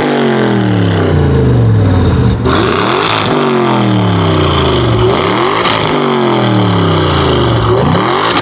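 Audi RS6 C7's twin-turbo V8 with a decatted Akrapovic exhaust running loud, its pitch falling steadily and jumping back up three times, about every two and a half seconds. A few sharp cracks from the exhaust come near the jumps.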